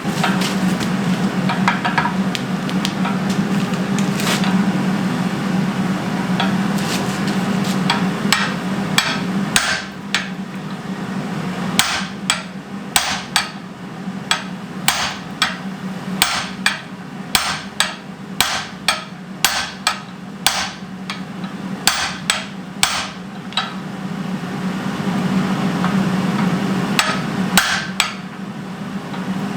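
Blacksmith's hand hammer striking a hot steel bar on an anvil, setting down shoulders: a run of sharp ringing blows, sparse at first and then about two a second from a third of the way in, over a steady low hum.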